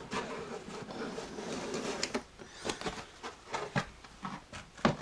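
Cardboard model kit box being opened: about two seconds of rubbing and sliding as the lid comes off, then a run of light knocks and clicks, the loudest near the end.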